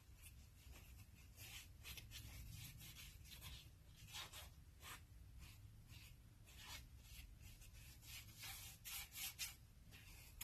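Near silence with faint, irregular scratchy rubbing sounds from handling the paint and painting surface.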